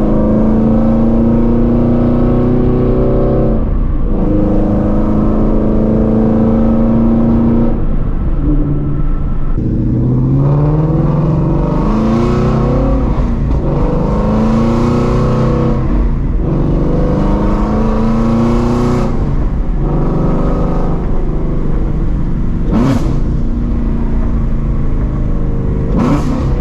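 2016 Shelby GT350's flat-plane-crank 5.2 L V8, breathing through catless long-tube headers, under way. It holds a steady note at first, then pulls hard several times with the pitch rising, each pull cut by a short dip, and two sharp snaps come in the last few seconds.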